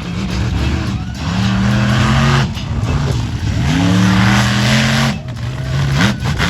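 Monster truck engine revving in repeated surges: about three times the revs climb, hold for a second or so, then drop away.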